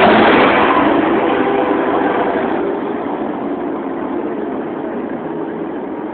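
Truck engine running as a truck passes close by, then fading as it moves away.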